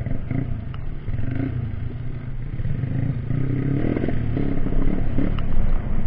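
Off-road trail motorcycle engine running, revving up and dropping back several times, with some clatter.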